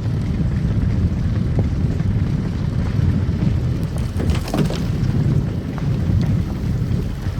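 Car driving on a snow-covered road: a steady low rumble of tyres and engine, with scattered crackles and clicks, a brief cluster of them about four and a half seconds in.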